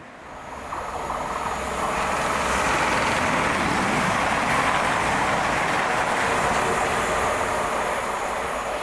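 A train passing through the station: a loud rushing noise that swells over the first two seconds, holds steady, and starts to fade near the end.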